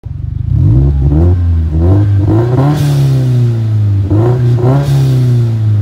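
Car engine revved repeatedly, a quick stutter at the very start and then a run of throttle blips, pitch jumping up with each and sinking back between them. Several blips come close together in the first three seconds, then a couple more around four to five seconds in.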